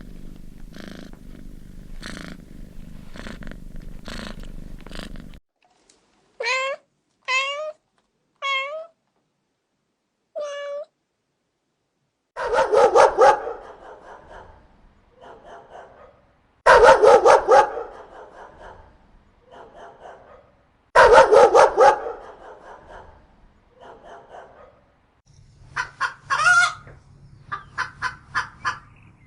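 A series of recorded animal calls in separate bursts. First a cat purring with low, even pulsing, then four short meows with gliding pitch. After that come three loud bursts of rapid pulsed calls with quieter calls between them, and quick pulsed calls near the end.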